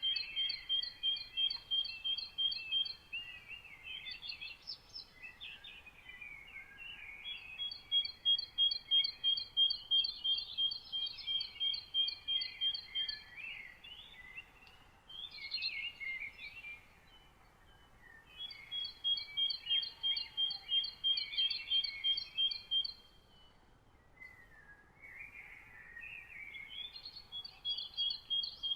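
Songbirds singing at dawn. One bird repeats a rapid, evenly spaced run of high notes for a few seconds at a time, about four times, and other birds' varied chirps fill the gaps, over a faint steady hiss.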